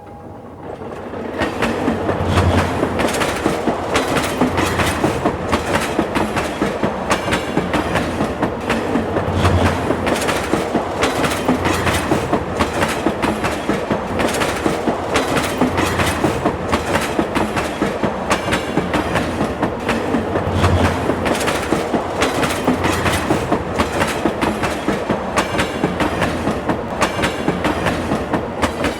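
Train passing, its wheels clattering over rail joints in a steady, rapid rhythm that builds about a second in and fades away near the end.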